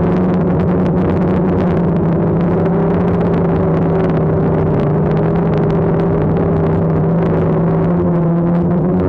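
DJI Phantom quadcopter's electric motors and propellers whining steadily in flight, the pitch rising a little about three seconds in and dipping slightly about halfway through as the motors adjust. A rough noise of gusting wind runs underneath.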